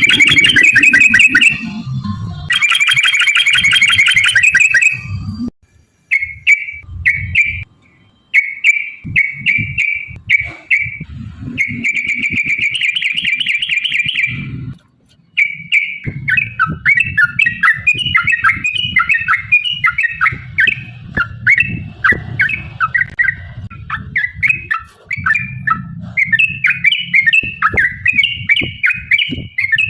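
Yellow-vented bulbul (trucukan) song: loud, fast rattling trills in two long bursts at first. Then come shorter phrases, another long trill, and from about halfway a busy run of quick chattering notes.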